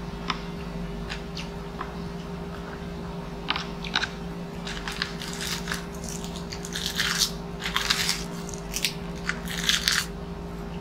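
Close-miked eating sounds: scattered wet chewing clicks, then from about four seconds in a dense run of crisp crunches as a sheet of dried roasted nori is bitten and chewed. A steady low hum runs underneath.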